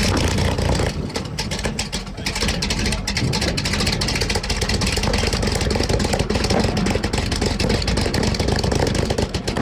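V12 engine running steadily just after a start attempt, a loud dense mechanical noise with a slight dip about two seconds in.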